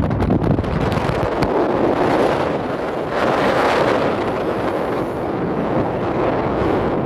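Wind rushing over the microphone aboard a moving passenger motorboat, over the boat's running engine and the wash of the water, with a few sharp knocks in the first second and a half.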